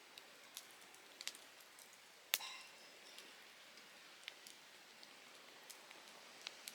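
Campfire of softwood (conifer) logs crackling: scattered sharp pops over a faint steady hiss, with one louder snap a little over two seconds in that rings briefly.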